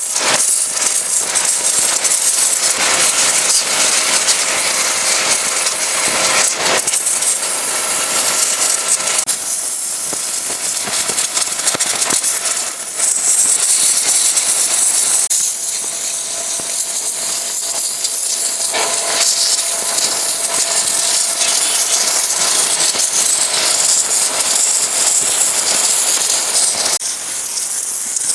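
Pressure washer spraying water, a loud steady hiss with a faint motor hum underneath. The hiss shifts in strength a few times as the jet moves over the surface.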